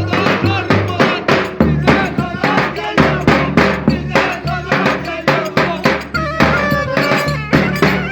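A band playing Turkish wedding dance music for köçek dancing: a steady, driving drum beat under a wavering, ornamented melody line.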